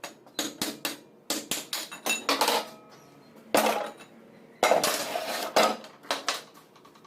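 Metal tools and alternator parts clinking and knocking against each other at an irregular pace, a dozen or so sharp strikes, several with a short metallic ring.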